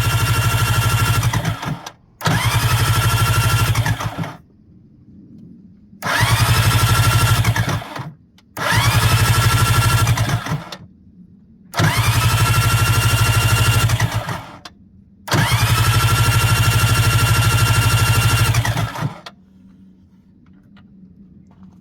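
Yamaha SJ700 SuperJet's two-stroke engine being turned over on its electric starter in six short bursts of two to four seconds each. Each burst has a whine that rises and then holds steady, and each stops abruptly.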